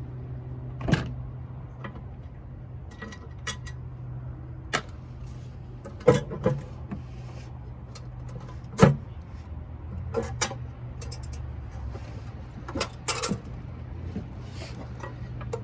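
Scattered sharp metallic clicks and knocks of hand tools and parts as an oil catch can is unbolted and lifted out of a car's engine bay, about nine in all, over a steady low hum.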